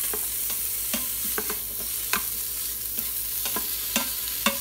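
Sliced smoked sausage and vegetables sizzling in an Instant Pot's stainless-steel inner pot on sauté, stirred with a wooden spoon that knocks and scrapes against the pot at irregular intervals.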